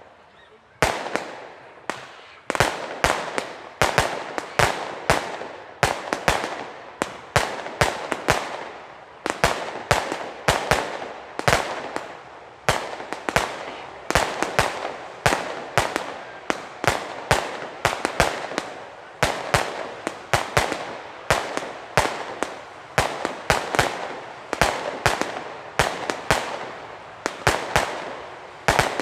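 Weco Pyro Concept 905 category F2 firework compound battery firing: a rapid, continuous string of sharp shots and bangs, about two a second.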